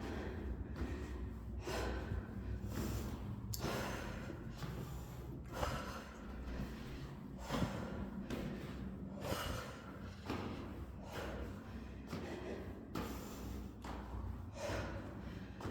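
Heavy, gasping breaths and snorting sniffs of a person out of breath from climbing stairs, repeated every second or less, with footsteps echoing in the stairwell.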